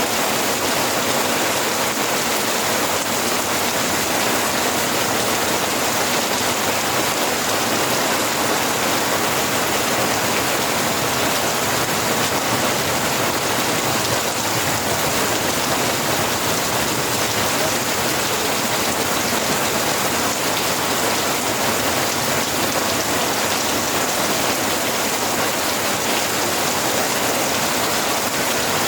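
Steady rain falling on a surface, an even hiss with no breaks.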